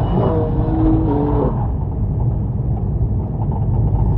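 Car engine and road rumble heard from inside the cabin, with a rising engine note that levels off and then drops away about a second and a half in.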